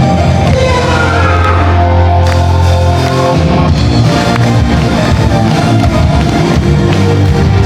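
Rock band playing loudly without vocals: electric guitar, bass and drums, with a heavy held bass note that shifts about three seconds in.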